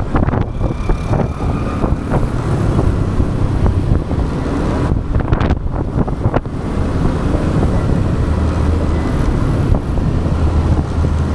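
Motorbike riding along a road, its engine and tyre noise mixed with wind buffeting the action camera's microphone in a steady low rumble.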